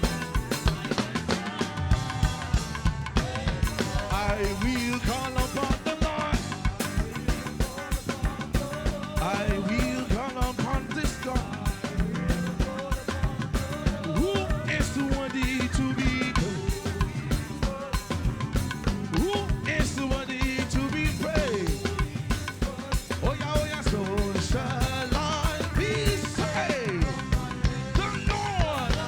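Live band playing upbeat instrumental music, driven by a fast, steady drum-kit beat with snare and bass drum.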